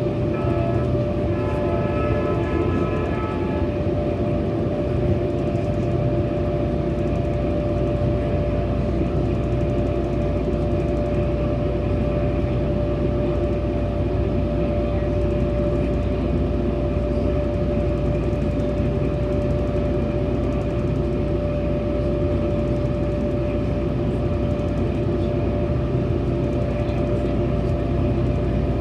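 Metrolink commuter train under way, heard on board: a steady rumble of wheels on rail with a constant hum. A brief higher multi-note tone sounds in the first few seconds, then fades.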